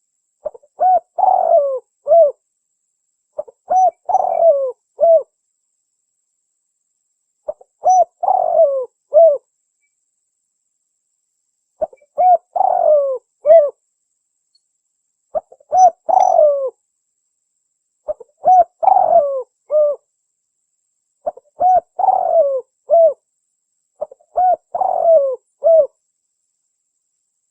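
Spotted dove (tekukur) cooing: a short phrase of several coos, repeated about every three to four seconds, about eight times, with silence between the phrases.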